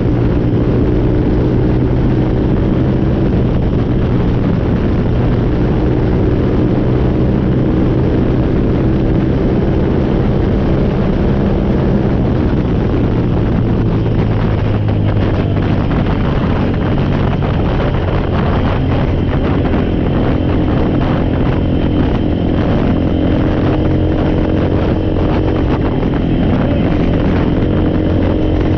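Four-wheeler (ATV) engine running steadily, its pitch shifting slightly about halfway through.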